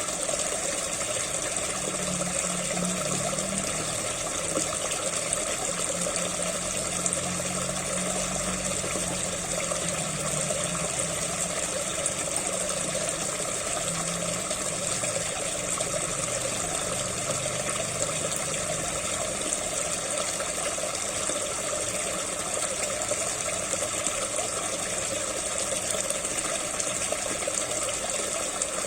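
SUNSUN JTP-5800 pond pump running, its outflow gushing and splashing steadily into the water, with a low hum in the first half.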